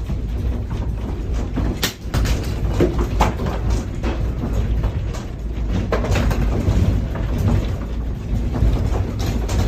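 A continuous heavy low rumble with scattered knocks and rattles throughout.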